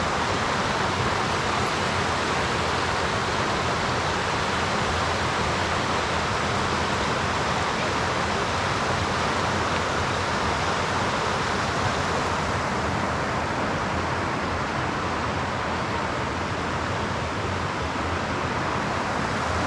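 Steady rushing of a mountain river's water, an even, unbroken noise.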